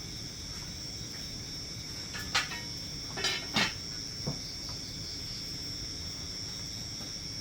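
Crickets chirring in a steady high-pitched drone, with a few short light knocks about two to four seconds in.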